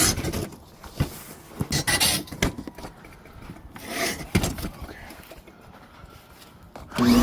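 Objects being handled by hand: a series of irregular rustling and scraping bursts with a few sharp knocks, about a second or so apart.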